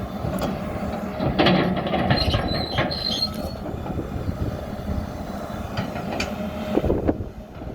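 John Deere excavator and articulated dump truck at work: diesel engines running under metal clanks and knocks, with a brief high squeal of metal about two and a half seconds in.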